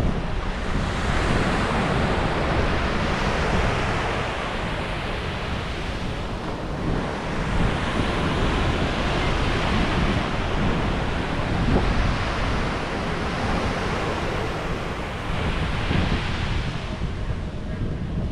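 Ocean waves breaking and washing up on a beach, in repeated swells of surf a few seconds apart, with wind rumbling on the microphone.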